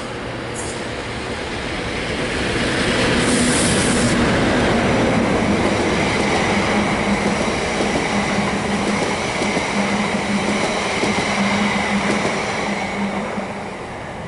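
Class 37 diesel locomotive passing at speed, its English Electric engine loudest a few seconds in. The Class 730 electric unit it is hauling then rolls past, its wheels rumbling over the track with a steady high whine, and the sound eases off near the end.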